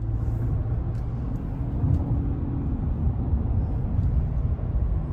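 Low, steady rumble of a vehicle heard from inside the cab while it is being driven.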